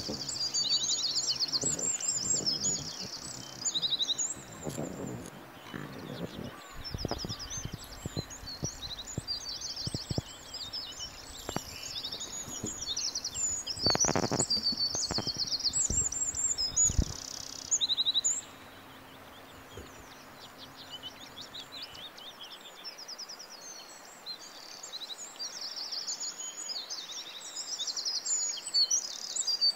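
Small birds chirping and trilling in quick repeated phrases. In the middle stretch, soft knocks and rustles sound beneath them, the loudest about halfway through.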